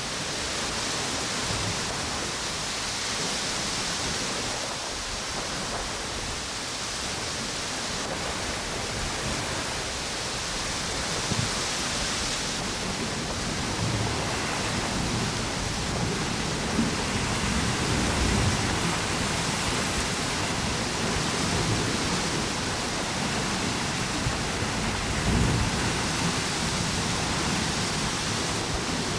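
Steady wash of ocean waves on a beach mixed with wind blowing through palm trees, the hiss swelling and easing. From about halfway on, gusts add a low rumble.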